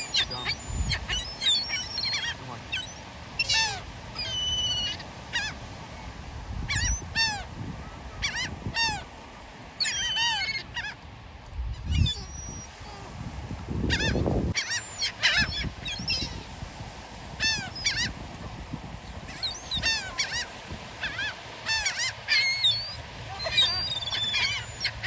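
A large flock of birds calling over one another, a steady stream of short, high, rising-and-falling squawks, with a couple of low rumbles about halfway through.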